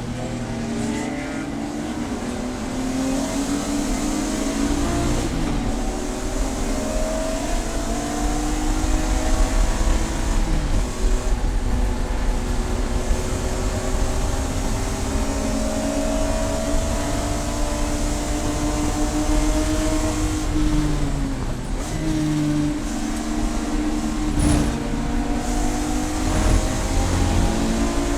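Race car engine running hard under load, its note climbing slowly and dropping back sharply about ten and twenty seconds in.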